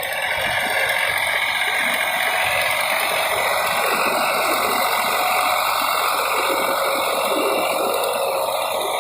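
Tractor engine running steadily while its rotavator tills a paddy field.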